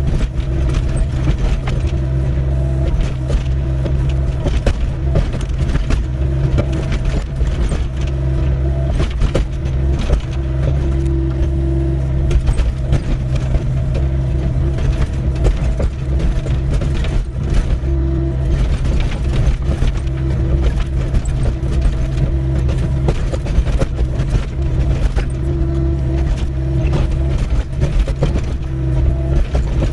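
Doosan 55W wheeled excavator's diesel engine running steadily under digging load, with frequent short clanks and scrapes from the bucket working stony ground.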